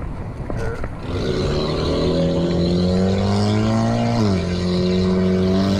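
A motor vehicle's engine accelerating close by. Its pitch climbs steadily from about a second in, drops suddenly at a gear change about four seconds in, then holds steady.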